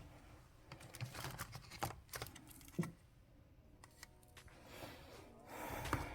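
Faint, irregular clicks, taps and knocks with some rustling, like small objects being handled, with a sharper knock near three seconds in and a louder one just before the end.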